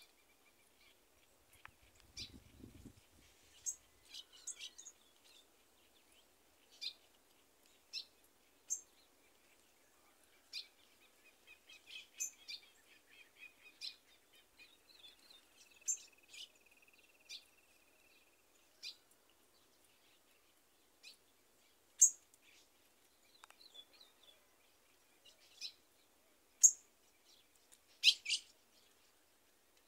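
Songbirds calling in short, sharp, high chirps at irregular intervals, several a few seconds apart. The loudest come near the end. A faint steady high buzz runs underneath.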